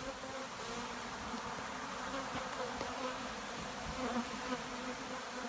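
A mass of Africanized honeybees buzzing steadily around their hive, an even, unbroken hum of many bees.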